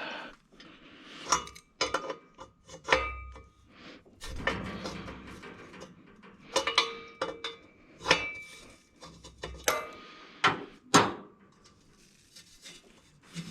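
Hand tools and metal parts clinking and knocking at irregular intervals, about a dozen sharp knocks, many with a brief metallic ring. This is the sound of wrenching the old wideband sensor off a turbo setup. The loudest knock comes near the end.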